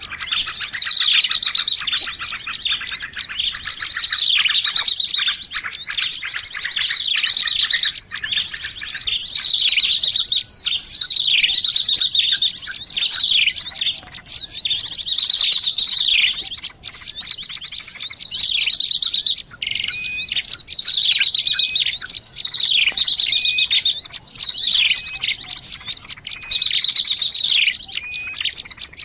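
Many small songbirds chirping at once, as on a bird-lure recording made to draw small birds in. Repeated downward-sweeping calls come about once a second over a constant high, fast trill.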